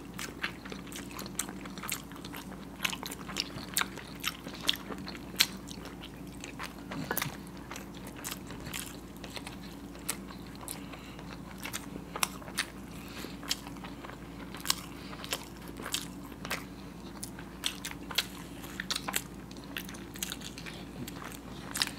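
Two people biting and chewing peeled hard-boiled eggs, with irregular wet mouth clicks and smacks scattered throughout, over a faint steady low hum.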